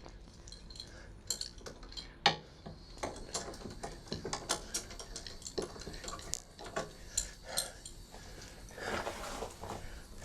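Irregular metallic clinks, clicks and knocks of hand tools and parts being handled while working on an RV generator to reach its spark plug, with one sharper knock about two seconds in and a short rustle near the end.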